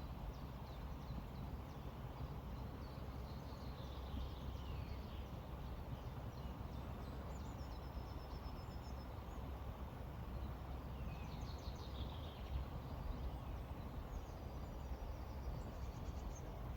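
Steady rush of a flowing river, with small birds singing over it: a falling chirpy phrase twice and a fast high trill twice.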